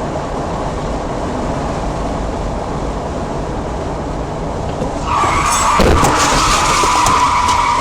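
Car road noise, then about five seconds in tyres squeal in a long hard skid lasting about three seconds, with a short thud partway through.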